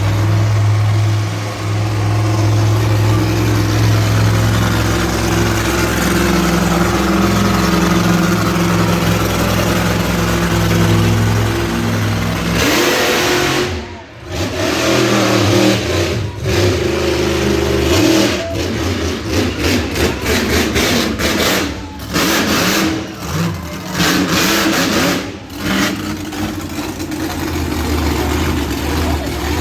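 Monster truck engine running loudly at a steady pitch for about twelve seconds, then revving in short, choppy bursts with brief dips, settling back to a steadier run near the end.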